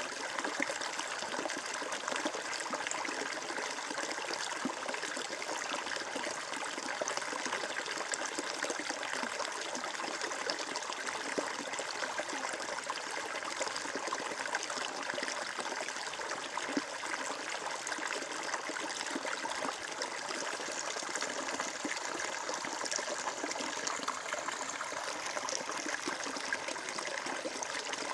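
Water flowing steadily, a stream's continuous trickling and rushing with no pauses.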